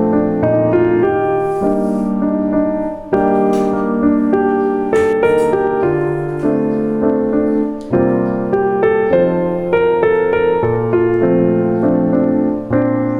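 Calm solo piano background music, slow held notes and chords.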